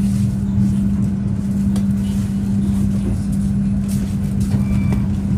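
Passenger train coach running, heard from inside the cabin: a steady low rumble from the running gear with a constant low hum over it, as the train runs toward its stop.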